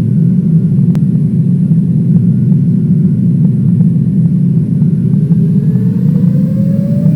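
Airliner cabin noise: the engines and airflow make a loud, steady low roar. Near the end an engine tone rises steadily in pitch as the engines spool up to more thrust.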